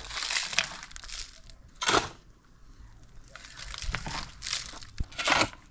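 Dry material being handled: irregular bursts of rustling and crunching, with a few louder crackling handfuls.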